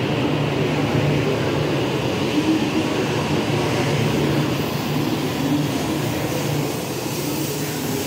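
JR East E6 series shinkansen cars rolling slowly past as the train pulls out of the platform: a steady low hum and rumble of the wheels and running gear.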